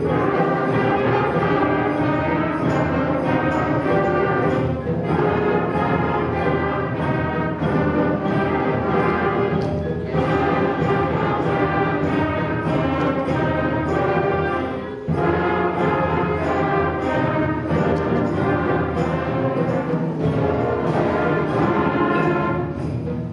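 Middle school concert band playing a loud, driving piece, with brass over sustained harmony and percussion hits, pausing briefly between phrases about 5, 10 and 15 seconds in.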